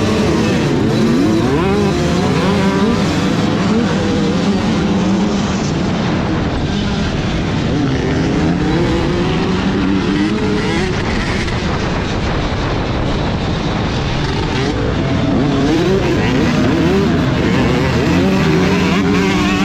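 Motocross bike engines revving and running hard, several at once, their pitch climbing and falling again and again over a steady drone.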